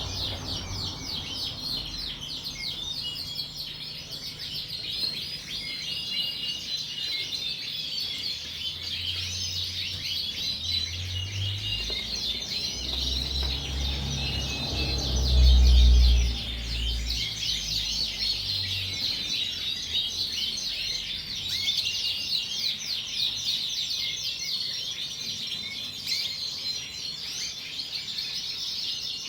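Many Yorkshire canaries chirping and trilling together in a dense, continuous chorus. About halfway through, a brief low rumble rises over it.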